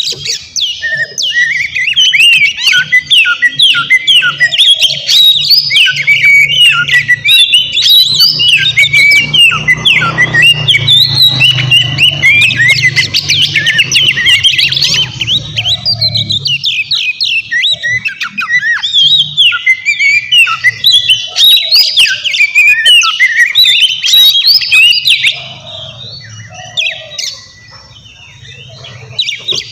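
Oriental magpie-robin (kacer) singing hard in a fast, unbroken stream of varied whistles, trills and chattering notes. It eases to a quieter, sparser song in the last few seconds.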